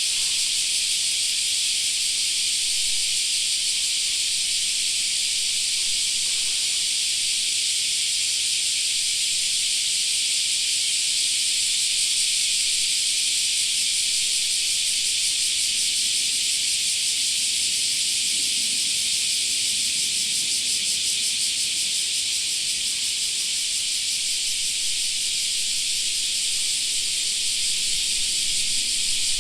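Chorus of cicadas buzzing steadily and continuously, a high, shrill sound that never lets up.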